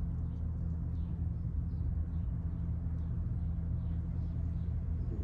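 A steady low hum with an even, unchanging level.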